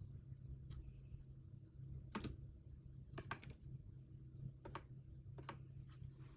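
Computer keyboard keys clicking now and then, about six separate keystrokes spread over several seconds, two of them in quick pairs, over a steady low hum.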